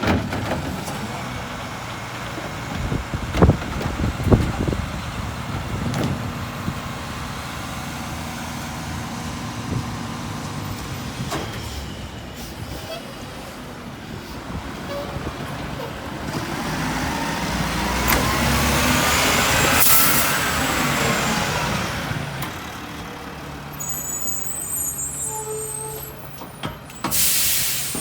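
Mack LR garbage truck's diesel engine running, with a few sharp knocks early on. Around the middle the engine speeds up for several seconds with a rising and falling whine, typical of the Heil rear loader's packer cycling. A short burst of air hiss from the truck's air system comes near the end.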